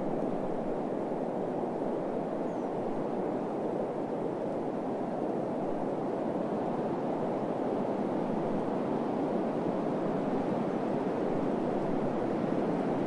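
Steady, low rushing desert wind with slow gentle swells and no other sounds.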